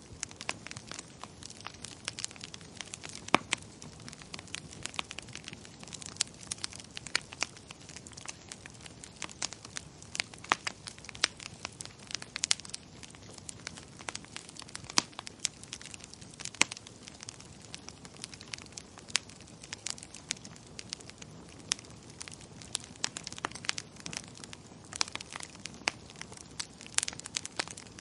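Wood fire crackling in a fireplace: a steady low hiss with many irregular sharp pops and snaps.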